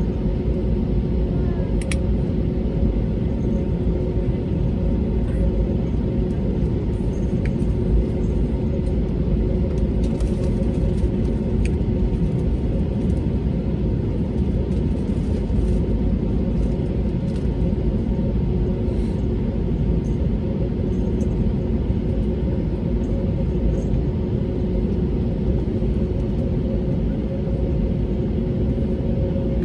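Cabin noise inside an Airbus A320neo on the ground, with its Pratt & Whitney geared turbofans at idle: a steady rumble with a constant hum of several tones. A few faint ticks sound within the cabin.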